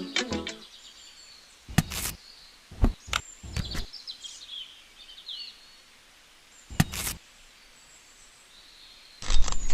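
Faint bird chirps over a quiet outdoor background, broken by a few short knocks, about 2, 3 and 7 seconds in. Near the end a loud, rapid rattling noise starts suddenly.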